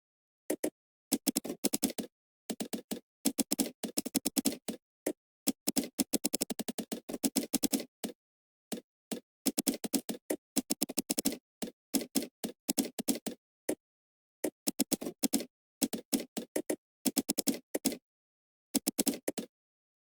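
Computer keyboard typing in quick bursts of key clicks with short pauses between, the gaps cut to dead silence.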